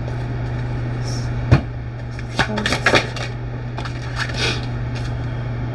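Tarot cards being handled and laid down on a table: a sharp tap about a second and a half in, then a cluster of taps and brushing slides between about 2.5 and 4.5 s in, over a steady low hum.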